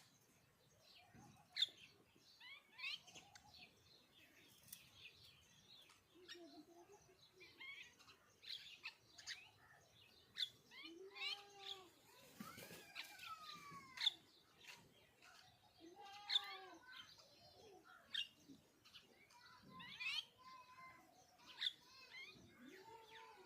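Small birds chirping and trilling in short, repeated calls throughout, with a few lower calls of about half a second each that rise and fall in pitch.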